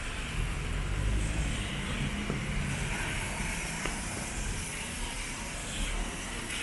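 Steady hiss of rain and wet street ambience, with a vehicle's low rumble swelling and passing between about half a second and two and a half seconds in.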